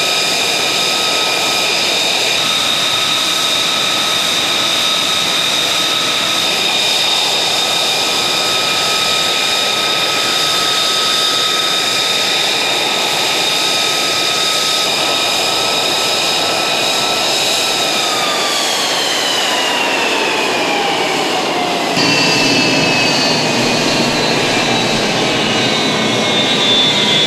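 F-35C's Pratt & Whitney F135 turbofan running on the ground with a loud, steady high whine over a rushing noise. About eighteen seconds in, the whine begins to fall steadily in pitch as the engine spools down.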